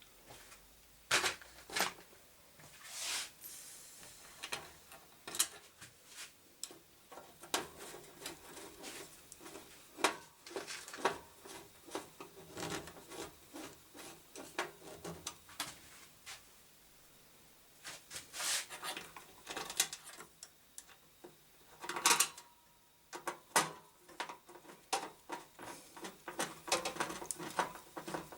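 Irregular small clicks, taps and scrapes of hands handling computer parts and tools, with a few sharper knocks, the loudest about 22 seconds in.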